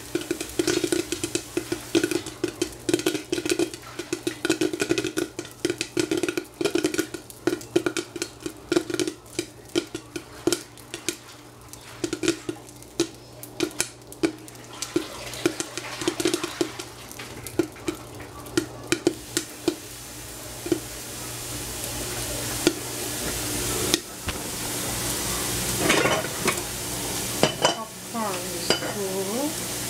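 Kitchen cooking sounds: a run of quick knocks of a utensil for about the first twenty seconds, then food sizzling as it fries in a pan, the sizzle growing louder toward the end.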